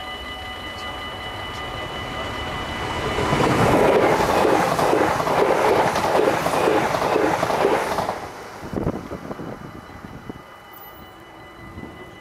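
A coupled pair of Stadler FLIRT electric multiple units passes over a level crossing, its wheels clattering in quick regular beats. The passing sound rises about three seconds in and drops away sharply near eight seconds, with one thump shortly after. Through it all the crossing's mechanical bells keep ringing steadily.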